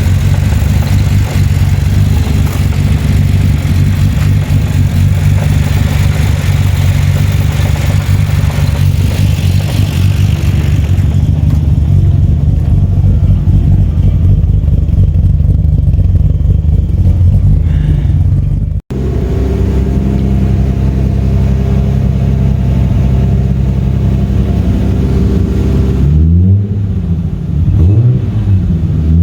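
Toyota 2JZ straight-six running on its very first start under a new MaxxECU, with nothing tuned yet. It idles steadily at first; after a sudden break about two-thirds of the way in, the revs are blipped a few times near the end, rising and falling.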